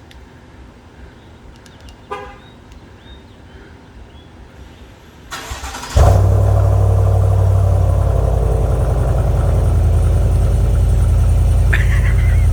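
A 2021 GMC Sierra AT4's 6.2L V8 is cold-started through a Borla ATAK muffler. There is a short beep about two seconds in and brief cranking just after five seconds. The engine roars to life at about six seconds and settles into a loud, steady cold-start idle.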